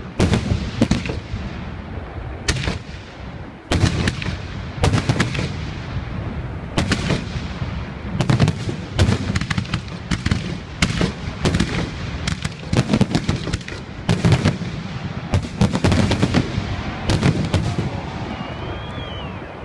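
Aerial fireworks bursting in a dense, rapid volley of sharp cracks and booms over a rolling low rumble, thinning out near the end.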